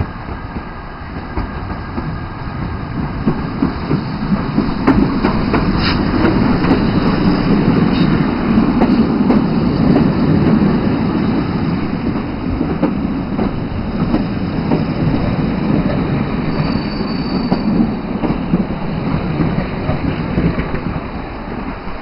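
Heritage passenger coaches rolling slowly past a station platform, their wheels rumbling and clicking over the rail joints. The sound grows louder over the first few seconds as the train draws in, and a brief high wheel squeal comes about three-quarters of the way through.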